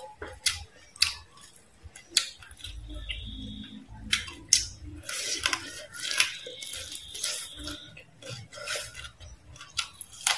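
Close-up crunching and chewing of crispy deep-fried frog eaten by hand, in irregular sharp crunches.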